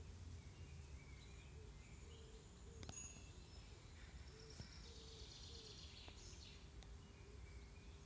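Faint birdsong, short chirps and trills, over a low steady background rumble.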